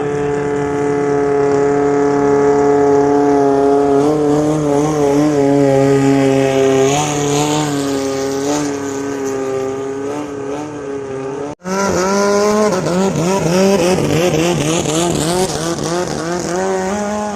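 Longtail boat engine running at high revs, its pitch mostly steady with small wobbles. After a sudden break about two-thirds of the way in, an engine revs up and down quickly and repeatedly.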